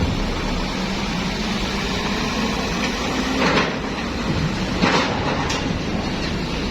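Steady rumble of a moving bus, with a few short noisy clatters about halfway through.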